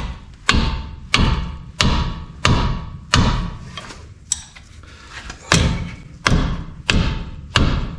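Hammer blows on metal, about every two-thirds of a second with a short pause near the middle, each strike ringing briefly.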